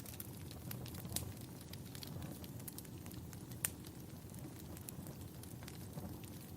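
Wood fire burning in a fireplace: a low steady rumble with irregular sharp crackles and pops, the loudest pops about a second in and near the middle.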